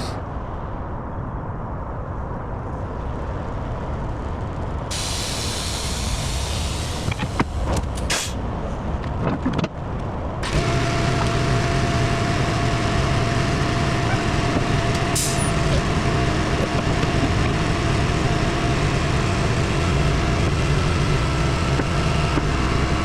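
Kenworth T880 semi truck running, with air hissing for about five seconds and a few sharp clicks in the middle of it. About ten seconds in, the engine gets louder and steadier, with a steady whine over it.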